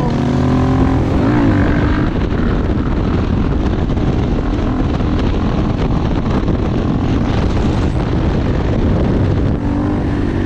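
Motorcycle engine running under way, its pitch rising and falling in the first couple of seconds as the rider works the throttle. A steady rush of wind and road noise then covers most of it.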